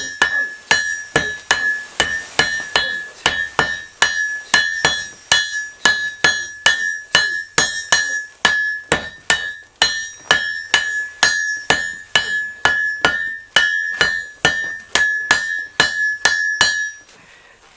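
Three hand hammers striking a hot bog iron bloom on an anvil in turn, in a steady rhythm of about two and a half blows a second, each blow leaving a high ringing tone. This is the bloom being refined and forge-welded together. The hammering stops near the end.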